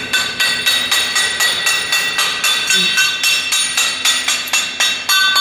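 Percussive drilling into a concrete slab: rapid, even metallic blows about four a second, each leaving the steel ringing.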